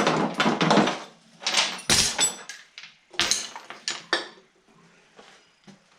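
Metal clanking and rattling from hand tools and mower parts being handled, in several separate bursts over the first four seconds, then a few faint taps.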